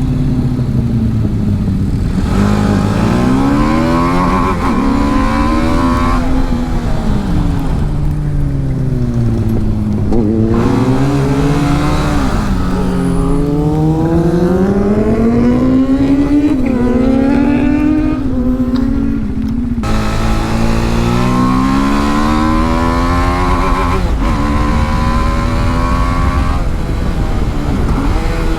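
TVS Apache RR310 single-cylinder engine at racing speed, revving up through the gears with sharp pitch drops at each upshift, then falling away as it slows for corners before pulling hard again. Wind rushes over the microphone throughout.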